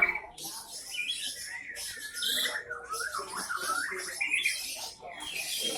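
Many caged songbirds chirping and whistling at once, a dense overlapping chorus of short calls and warbling trills.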